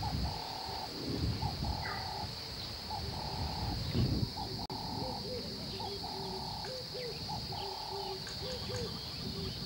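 Birds calling: one repeats a two-part call, a short note then a longer held one, about every second and a half, and from about halfway another joins with shorter, lower upswept notes. A steady high hum runs underneath.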